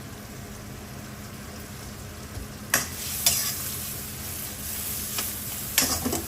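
Prawns frying and sizzling in hot oil in a pan while being stirred, with sharp stirring strokes against the pan about three seconds in and again near the end.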